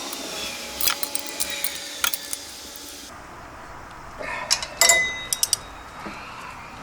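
Metal hand tools and parts clinking and clattering as they are handled: scattered sharp clinks, with a cluster about five seconds in, one of which rings briefly.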